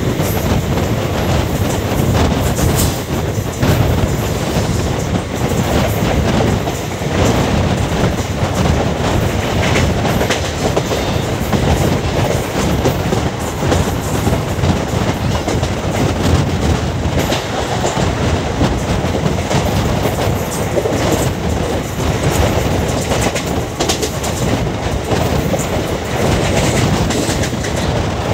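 Indian Railways express train running at speed, heard from on board: a steady rumble and rattle of the coaches, with the clickety-clack of wheels over rail joints.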